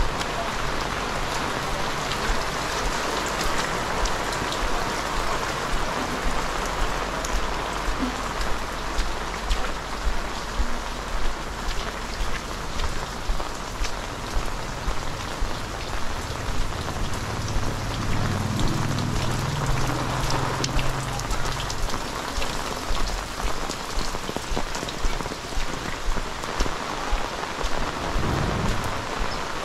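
Heavy rain falling steadily, with a regular pulse of about one to one and a half beats a second that fits footsteps on wet ground. A low rumble comes in a little past the middle and fades after a few seconds.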